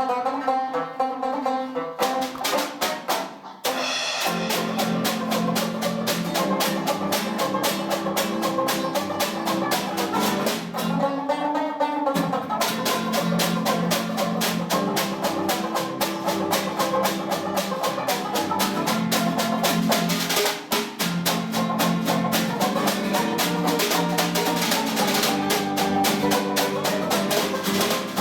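Jazz music led by a drum kit, with fast snare and cymbal strokes over pitched instrument accompaniment, starting suddenly.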